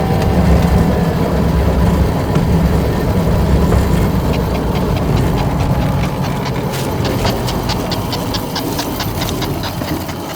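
A 15-inch gauge train riding on its rails with a steady low rumble that fades gradually over the last few seconds. From about halfway through, a rapid run of sharp clicks comes at roughly five a second.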